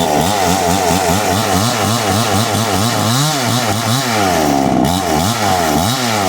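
Chainsaw running loudly, its engine speed rising and falling over and over as it works through wood.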